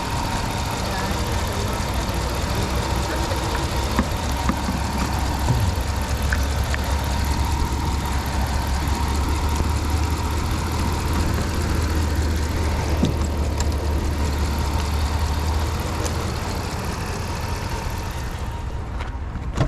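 Vehicle engine idling steadily with a low rumble that swells about four seconds in and eases near the end. This is the donor vehicle running to charge a dead battery through jumper cables.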